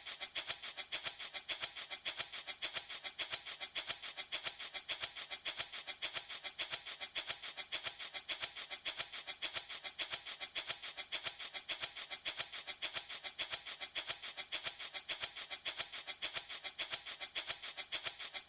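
Handmade baby rattle shaken in a steady, even rhythm, each shake a crisp, bright rattle.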